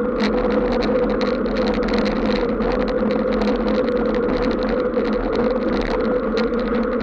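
A vehicle travelling along a wet road, with a steady, even hum and a constant scatter of short crackles from water.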